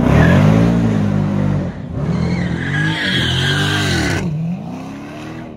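Car engine revved hard in repeated surges, its pitch rising and falling about once a second, with tires squealing and skidding through the middle: a car doing a burnout or donuts. The engine drops to a lower, steadier note near the end.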